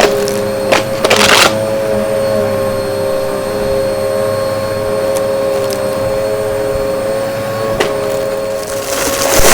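Vacuum cleaner running with a steady motor whine while sucking up crunchy debris: sharp cracks about a second in, then a loud rush of crackling near the end as it pulls in a patch of debris.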